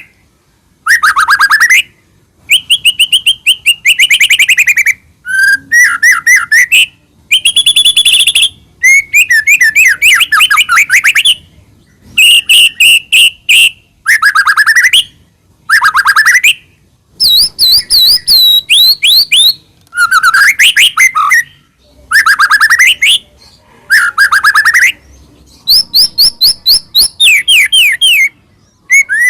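White-rumped shama (murai batu) singing loudly in full song: a string of short phrases, each a fast run of repeated sweeping notes, with brief pauses between them.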